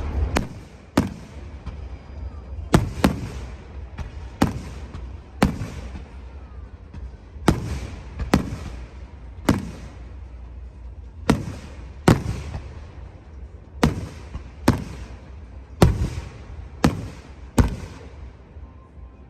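Fireworks bursting: a string of sharp bangs, roughly one a second at uneven spacing, each trailing off in a rolling echo over a low steady rumble. The bangs stop near the end.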